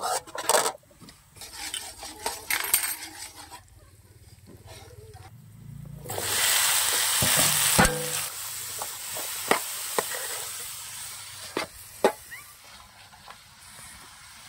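A metal spatula scrapes and stirs garlic and chilies in a steel wok. About six seconds in, a loud sizzle starts as chopped tomatoes and onions go into the hot oil, then fades to a steady frying hiss with sharp taps of the spatula on the wok.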